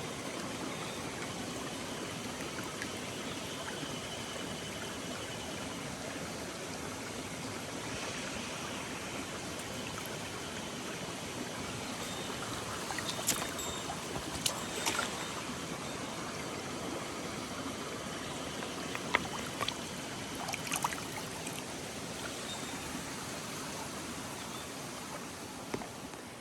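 Small mountain stream flowing and trickling over rocks, a steady rush of water, with a few brief sharp clicks about halfway through and again later.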